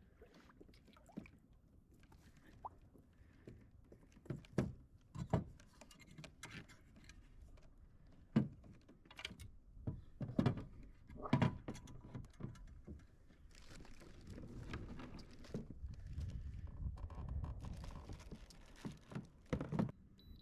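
Irregular knocks and thunks against a kayak, as gear and paddle bump the hull. A low steady noise runs through the last several seconds.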